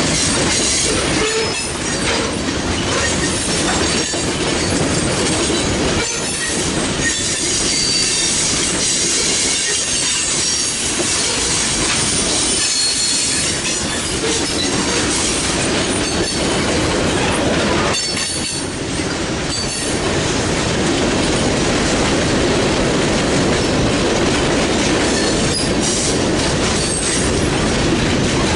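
Freight train cars rolling past, with steady wheel-on-rail noise and clatter and brief squeals from the wheels.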